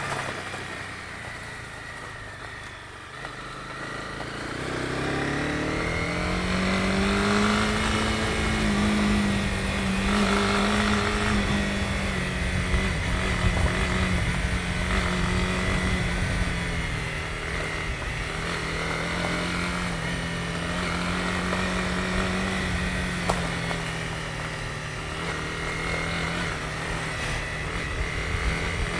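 Honda CB250R's single-cylinder four-stroke engine heard from the bike. The revs sit low for the first few seconds, climb as it accelerates about four seconds in, then hold at a steady cruise with small rises and falls in pitch.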